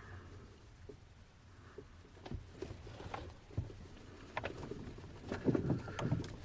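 Faint, irregular clicks, knocks and rattles inside a glider cockpit over a low rumble, growing busier and louder near the end.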